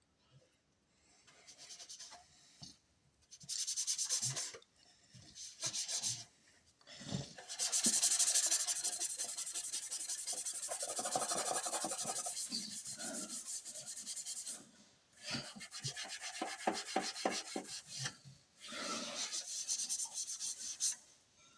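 Hand rubbing or scrubbing against a hard surface in fast, even strokes, in several runs with short pauses between them, the longest lasting about seven seconds.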